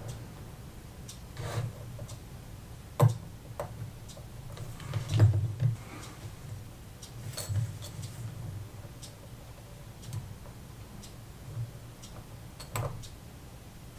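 Small, irregular clicks and taps of watchmaker's tools, such as tweezers and a screwdriver, on a mechanical watch movement during reassembly, over a faint low hum.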